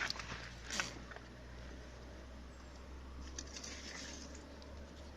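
Sticks being handled and laid on a small campfire: a light knock near the start and another just under a second in, then faint rustling and crackle over a low steady rumble.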